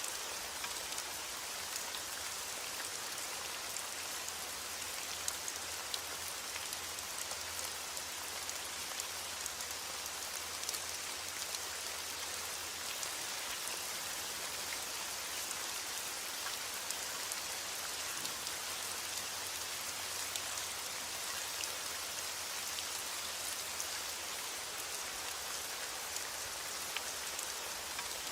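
Steady heavy rain falling, an even hiss of drops with many small distinct drop ticks and a faint low rumble underneath.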